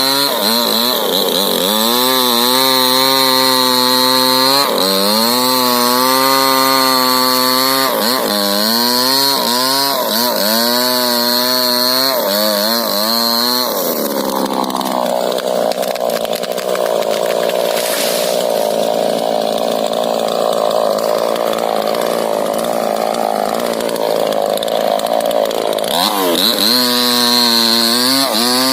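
Two-stroke chainsaw cutting a rubber tree, running at high revs with its pitch dipping repeatedly as the chain bites into the wood. About halfway through it drops to a lower, rougher running speed for roughly twelve seconds, then revs back up near the end.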